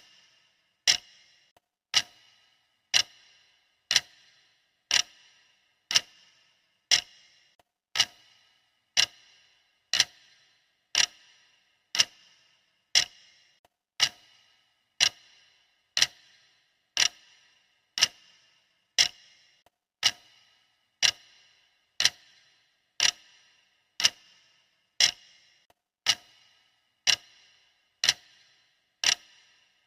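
Clock ticking sound effect, one sharp tick each second with a short ring after it, perfectly steady.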